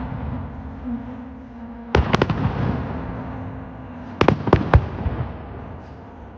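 Fireworks shells bursting in the sky: a quick cluster of sharp bangs about two seconds in and another about four seconds in, each trailing off in a long rumbling echo off the hills around the lake.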